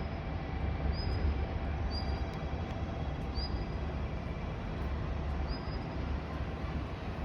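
KiHa 185 series diesel train running along the line: a steady low rumble with rail noise, and short high squeaks every second or two.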